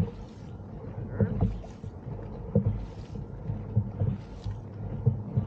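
Dragon boat crew paddling together: at each stroke a low thump as the paddles catch the water, then a short splashing swish, about one stroke every 1.3 seconds, with some wind on the microphone.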